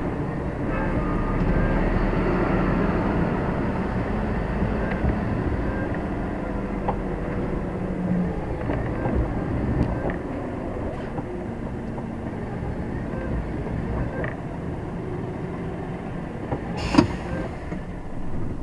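Heavy truck's diesel engine running, heard from inside the cab as it moves through the yard, with small rattles and a sharp knock near the end.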